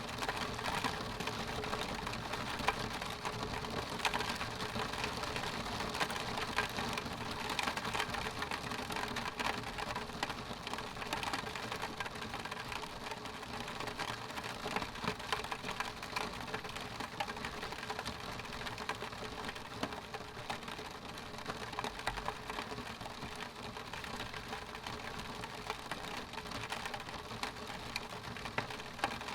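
Rain hitting a window pane: a steady patter of many small drops ticking on the glass.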